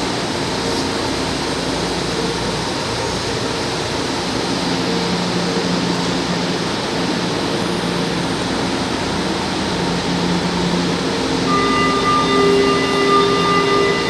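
São Paulo Metro Line 2 train approaching the platform: steady rushing noise of the station and tunnel that grows a little louder, with a set of steady whining tones coming in about three-quarters of the way through.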